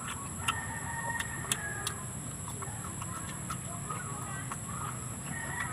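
Mouth sounds of eating by hand: wet chewing and lip smacks as a few sharp clicks, over distant bird calls and a steady high-pitched whine in the background.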